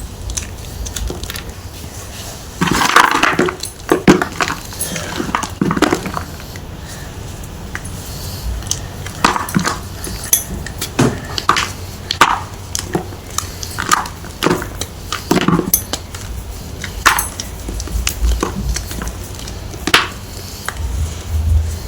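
Block of gym chalk being crushed and crumbled, making a string of irregular crunches and cracks. The densest, loudest crunching comes about three to four seconds in.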